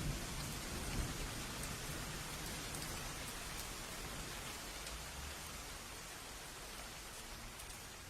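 Steady rain hissing, with a low rumble of thunder in the first second or so that dies away.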